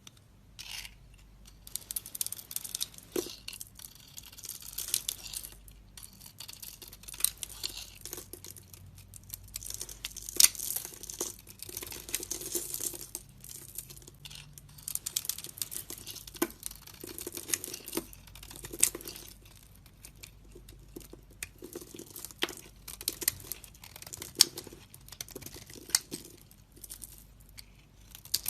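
A blade cutting and scraping into a bar of soap in a long run of short strokes, with crackly, crumbly scraping and sharp little clicks as pieces break away.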